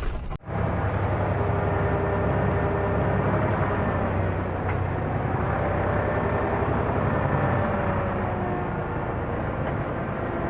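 Tractor engine running steadily under way, a low drone with a fainter wavering whine above it, starting abruptly about half a second in.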